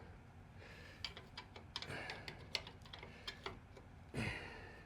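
Faint, irregular clicking of a ratchet wrench being worked on a chassis bolt, in short uneven runs.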